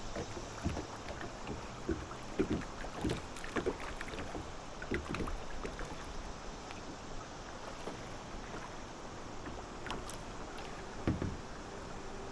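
Kayak paddle strokes: the blades dip and splash with dripping water in short, irregular strokes, busier in the first half, with a couple more near the end.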